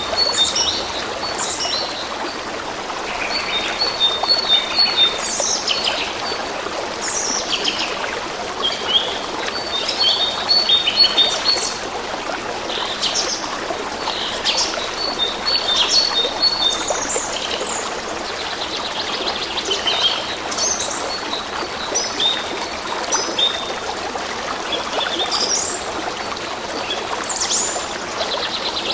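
Songbirds chirping and singing in short repeated phrases, some of quick even notes, over the steady trickle of a small stream.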